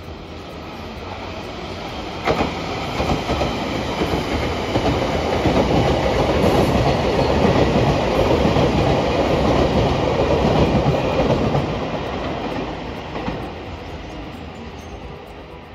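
A train passing close by on the rails: it builds up over the first few seconds, is loudest in the middle with wheels clattering over rail joints, then fades away.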